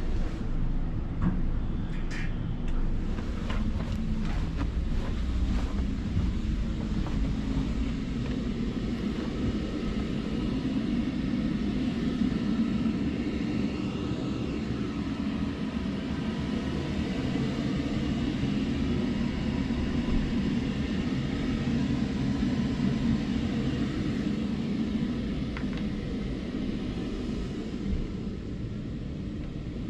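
A steady low mechanical rumble, like engines running, with a few sharp clicks and knocks in the first few seconds.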